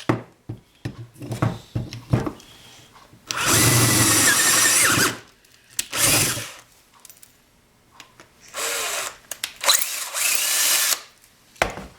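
A handheld power tool cutting into a metal lathe part in four bursts, the longest about two seconds near the middle, with quieter handling clicks between them.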